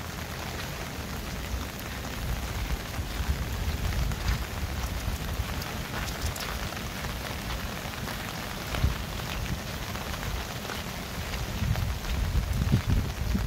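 Steady patter of rain, many small drops ticking, with a low rumble underneath that swells near the end.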